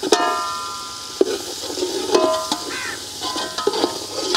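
Onion, tomato and ginger-garlic masala sizzling in hot oil in an aluminium pot, a metal slotted spatula stirring and scraping through it. The spatula knocks against the pot about once a second, and the pot rings briefly after several of the knocks.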